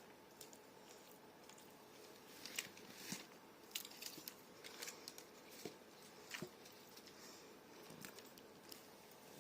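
Someone eating fish and chips close to the microphone: scattered bites, chewing and short crunches, starting about two seconds in, over a quiet room.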